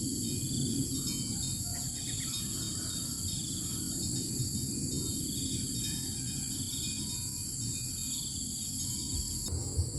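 Outdoor ambience led by a steady, high, many-layered insect drone, with faint short chirps about once a second and a low rumbling hiss beneath.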